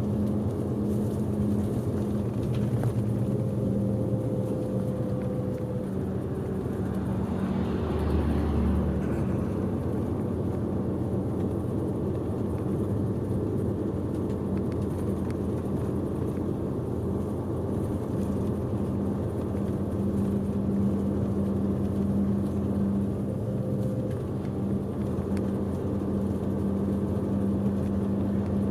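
Tour bus under way, heard from inside the passenger cabin: a steady engine hum with road and tyre noise. A brief whoosh swells and fades about eight seconds in.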